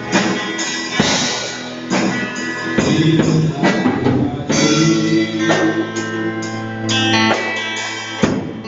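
Worship band playing an instrumental passage between sung lines: guitar chords over a drum kit, with the chords changing every second or so.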